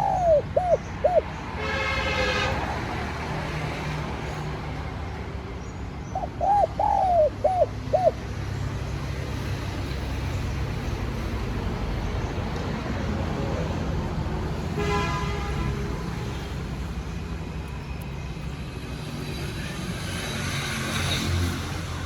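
Spotted dove cooing: two phrases of several short arching notes, one at the start and another about six seconds later, over a steady low rumble. Two short buzzy sounds come about two seconds and fifteen seconds in.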